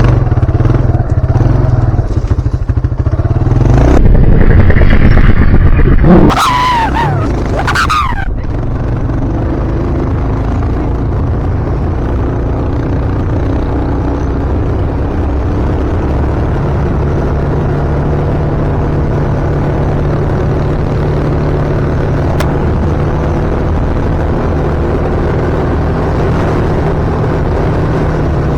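Kawasaki ATV engine running while riding, with its loudest stretch about four to six seconds in, followed by a few seconds of rising and falling pitch. It then settles into steady running.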